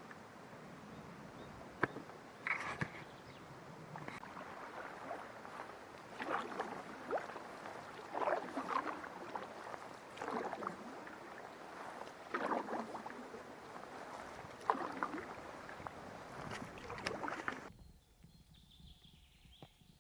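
Canoe paddle strokes in the water, a swish and splash repeating roughly every two seconds, with a few sharp knocks in between. The paddling stops abruptly near the end.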